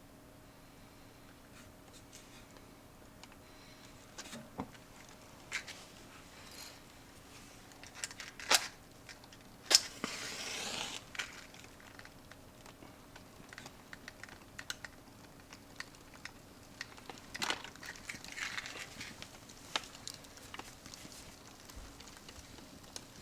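Indoor wood fireplace being lit: scattered sharp crackles and pops at irregular intervals, with a hissing flare lasting about a second just after a loud crack about halfway through, and a weaker one later.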